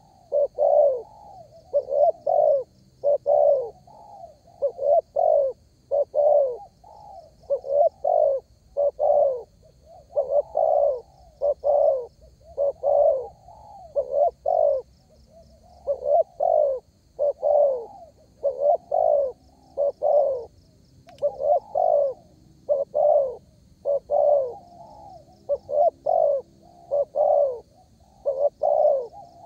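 Spotted dove (derkuku) cooing repeatedly and vigorously, a steady run of low, loud coo notes about one to two a second with brief pauses between phrases.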